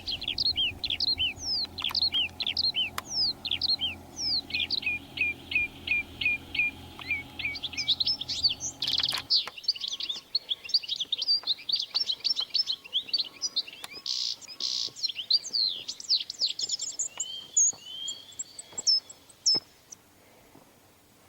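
Birds singing, a dense run of quick downward-sweeping chirps that fades out near the end. A low steady hum sits underneath and cuts off abruptly about nine seconds in.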